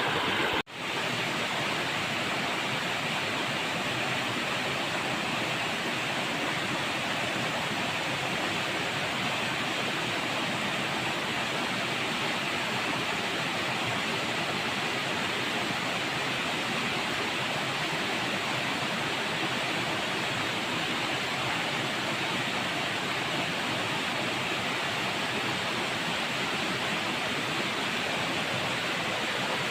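River water flowing, a steady noise of running water, with a brief dropout about half a second in.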